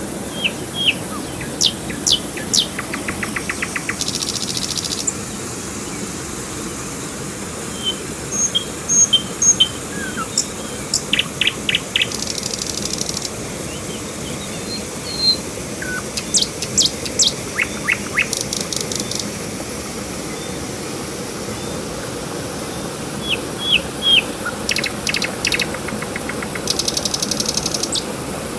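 Several songbirds chirping and calling, with short sweeping notes and rapid buzzy trills scattered throughout. They sound over a steady background hiss of the riverside ambience.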